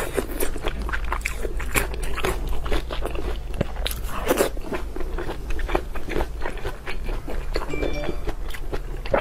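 Close-miked biting and chewing of braised pork intestine rings: a dense, irregular run of quick wet clicks and smacks from the mouth.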